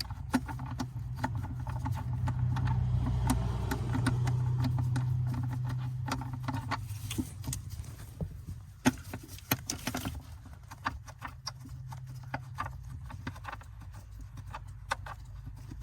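Small clicks and light knocks of hand work on metal fasteners and plastic under a car dashboard. Under them runs a low hum that swells over the first few seconds and then fades.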